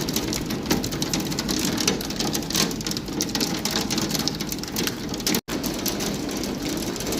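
Heavy rain with hail pelting down, a dense steady patter of many small impacts.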